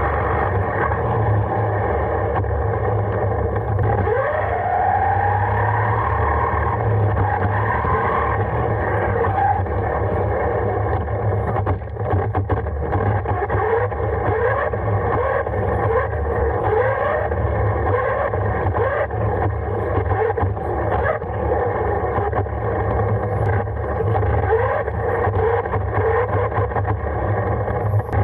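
Radio-controlled car driving, its motor whining steadily over a low rumble, with short rising whines about once a second in the second half as it speeds up again and again.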